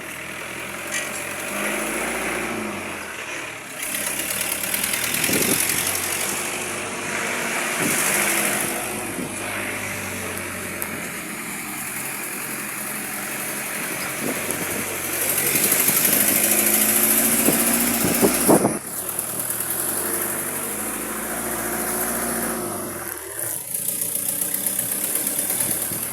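A motor vehicle's engine running, its pitch rising and falling as it speeds up and slows, over a steady rushing noise.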